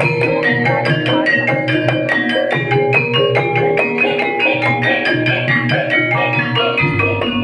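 Banyumasan ebeg accompaniment music: an ensemble of struck mallet instruments, gamelan or bamboo calung, playing a dense, quick run of pitched notes over a steady low part.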